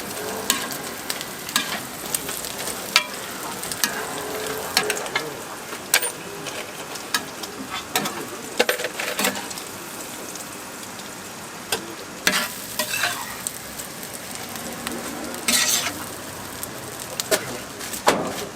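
Food sizzling steadily on a street-food toast griddle, with frequent sharp clicks and knocks over the frying.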